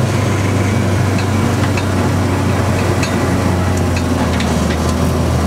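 Citroën AX rally car's engine heard from inside the cabin, running steadily at low revs as the car rolls slowly, its pitch dropping a little about a second in.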